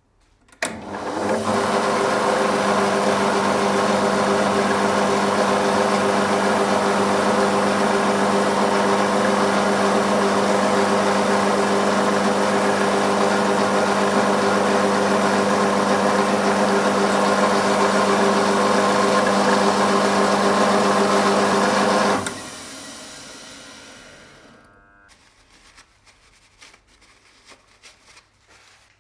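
Electric motor of a workshop machine tool starting up, running steadily at constant speed for about twenty seconds, then switched off and spinning down, its pitch falling over a few seconds. A few light clicks follow near the end.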